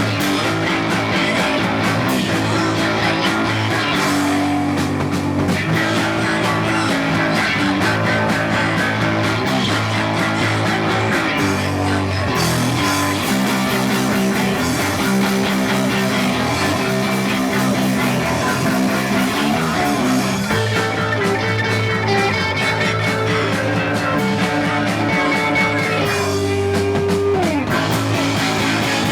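A punk rock band playing live: loud electric guitar over bass and drums, the song running without a break.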